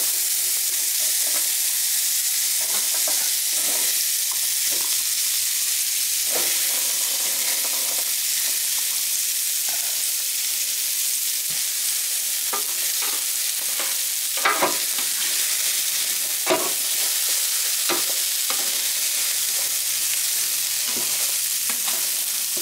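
Onions, mushrooms and green bell pepper sizzling in butter on a Blackstone E-Series electric indoor griddle, a steady hiss. Now and then a plastic spatula scrapes and taps across the griddle plate as it stirs them, more often in the second half.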